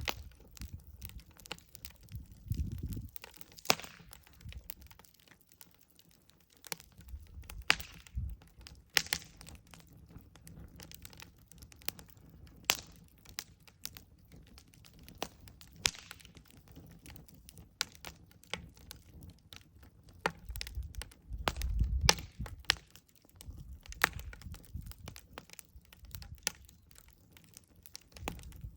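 Campfire burning with irregular sharp crackles and pops of burning wood, over a low rumble that swells now and then.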